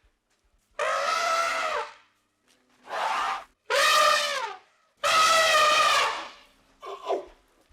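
An animal calling repeatedly: four long, high, nasal calls of about a second each, some dipping in pitch at the end, then two short calls near the end.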